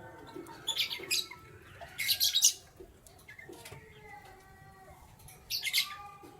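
Canaries chirping in three short, sharp bursts, about a second in, at two seconds (the loudest) and near the end, over fainter lower bird calls.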